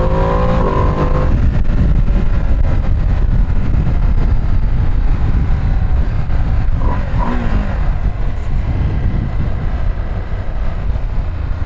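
Ducati Streetfighter V2 S twin-cylinder engine on the move: for about the first second it pulls with a rising pitch, then it runs on under a steady low rumble of riding noise. Around the middle the engine note briefly rises and falls.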